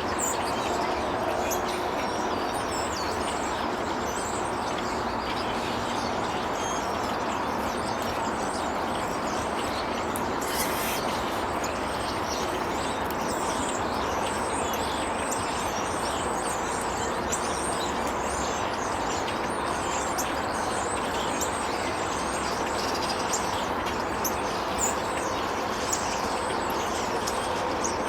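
Many small birds chirping over a steady background noise, with short high chirps throughout.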